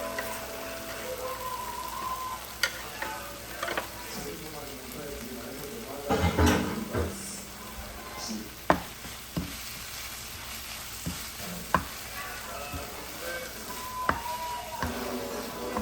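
Greens sizzling in a hot pan while being stirred, with a sharp knock now and then and a louder burst of sizzling about six seconds in.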